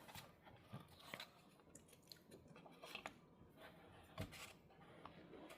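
Near silence with a few scattered faint taps and clicks of jigsaw puzzle pieces being picked up and set down.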